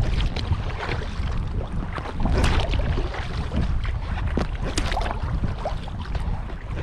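Kayak paddle blades dipping and splashing in the water, stroke after stroke, over a steady low rumble of wind on the microphone.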